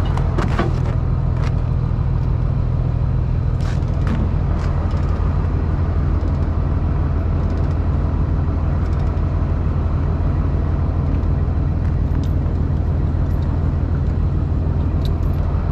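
Loader's diesel engine running steadily with a deep, even drone, with a few sharp clicks and knocks in the first few seconds.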